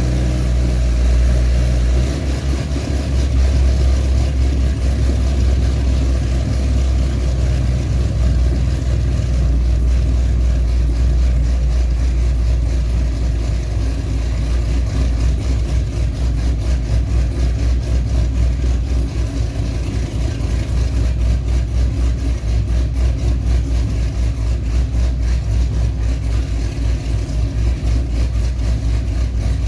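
The cammed 6.2-litre LS3 V8 of a 2009 Pontiac G8 GXP idling after a cold start, loud and deep through Kooks long-tube headers, an x-pipe and a 3-inch custom exhaust. Its idle settles slightly about two seconds in, then goes on with an even, pulsing lope.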